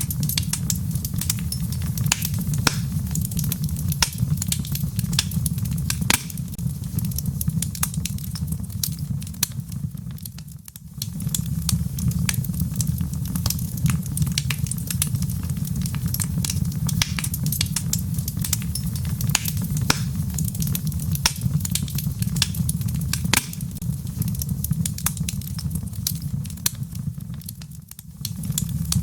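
Wood fire in a fireplace crackling, with frequent sharp pops over a steady low rumble, blended with rain. The sound dips briefly twice, about a third of the way in and near the end.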